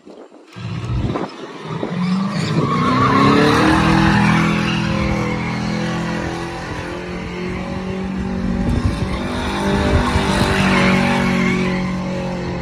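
A car engine revs up about two seconds in and holds at high revs while its tyres spin and squeal against the pavement. Loud throughout.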